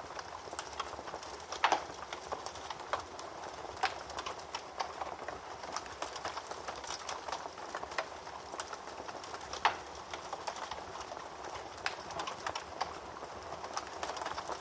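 Wood fire crackling in a fireplace: a steady hiss with many small snaps and pops, a louder pop about two seconds in and another near ten seconds in.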